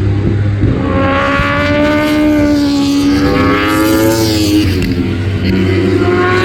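Superbike road-racing motorcycles running at high revs on track, the engine note climbing, then dropping a little after three seconds and again around five seconds, before a fresh rising note near the end.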